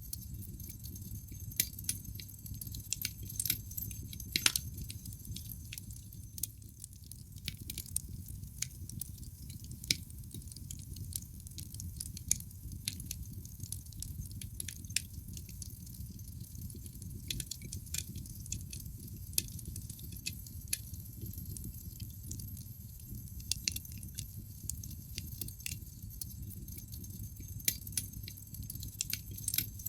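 Wood fire burning in a fireplace: frequent, irregular sharp crackles and pops from the logs over a low, steady rumble of the flames, with a few louder pops among them.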